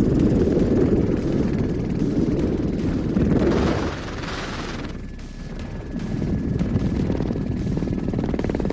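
Avalanche roaring down a mountainside: a deep, steady rumble with wind buffeting the microphone. A brighter hissing rush comes in just before the middle, then the rumble eases for a moment and builds again.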